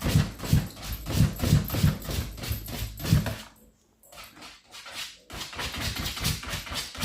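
A puppy scrabbling at a closed food container, trying to get it open: a rapid run of scratches and knocks, with a short pause about three and a half seconds in before it starts again.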